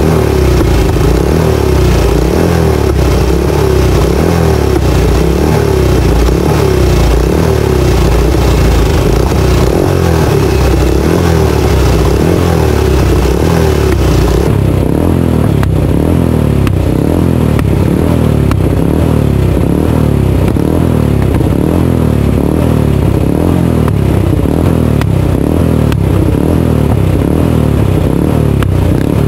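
Ducati 450 air-cooled single-cylinder four-stroke racing engine running loudly, heard from a camera mounted on the bike. About halfway the high hiss cuts out abruptly and the engine note changes.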